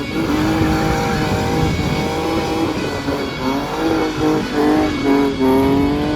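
BMW E46 M3 engine held at high revs, its pitch wavering up and down, with the tyres spinning in a burnout.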